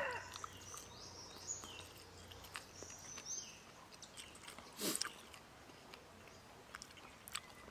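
Close-miked chewing of a mouthful of raw beef: soft wet mouth clicks and smacks, with one louder smack about five seconds in.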